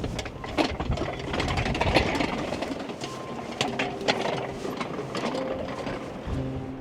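Ducati Scrambler Desert Sled's air-cooled V-twin running as the motorcycle climbs a rough mountain road, with frequent knocks and rattles over the steady engine sound.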